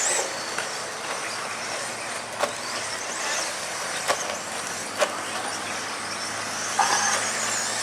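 Radio-controlled stadium trucks racing round the track, their motors giving high whines that rise and fall as they speed up and slow down. A few sharp clacks, about three in the middle, stand out over the steady noise.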